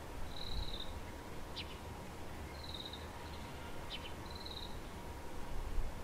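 A small bird calling: a short, high, slightly falling note repeated three times about every two seconds, with a quick sharp chip between the calls.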